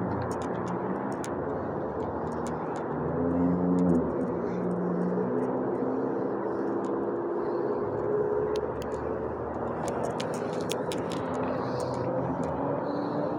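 A steady rumble of vehicle or engine noise, with pitched hums that slowly shift, and faint scattered clicks.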